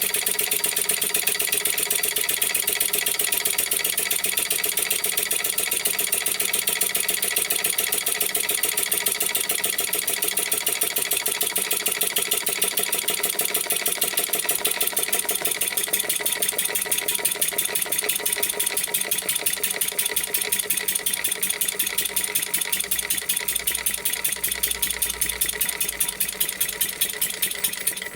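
Old single-cylinder four-stroke petrol engine converted to run on compressed air, running fast with a rapid, steady puffing from its exhaust. It stops suddenly at the very end.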